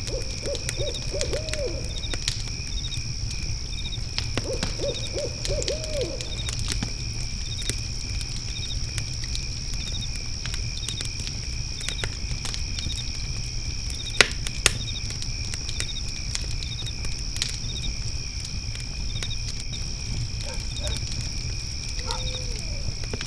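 Crickets trilling steadily over a crackling fire, which gives a low rumble and scattered pops, two of them sharp about halfway through. An owl hoots in two quick runs of several notes near the start, and again near the end.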